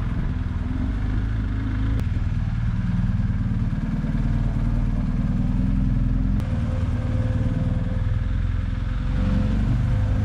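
BMW R 1250 GS Adventure's boxer-twin engine running steadily while riding. The sound shifts abruptly about two seconds in and again a little after six seconds.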